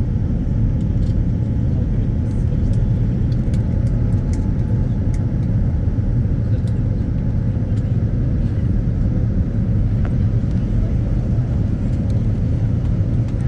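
Steady low rumble of a Boeing 787-9 Dreamliner's engines and airflow heard inside the passenger cabin during the approach, with a faint steady hum above it.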